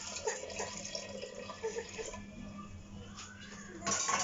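Water running and dripping, with faint voices under it in the first couple of seconds and a short louder rush of noise near the end.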